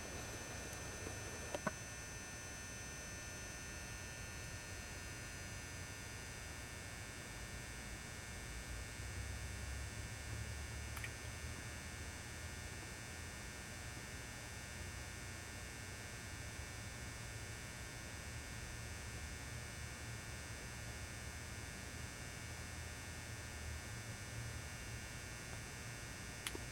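Faint steady electrical hum at mains frequency, with a few thin high steady tones above it, from a lit 400-watt mercury vapour lamp and its ballast.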